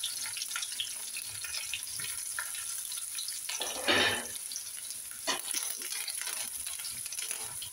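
Shallots, curry leaves and dried red chillies sizzling and crackling in hot coconut oil with mustard seeds in a wok. A steel ladle stirs them, with a few louder scraping strokes partway through.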